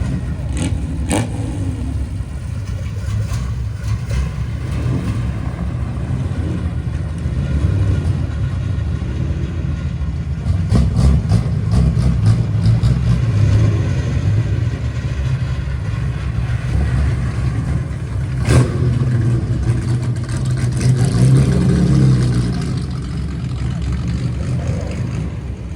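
Several classic Nissan cars (Laurel and Skyline) revving their engines through loud exhausts, a deep rumble that swells and falls in repeated blips, with a few sharp cracks.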